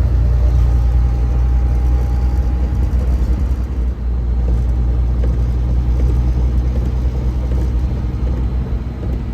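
Truck engine and road noise heard from inside the cab as a steady low rumble, the truck pulling at full throttle up a snowy hill and barely gaining speed.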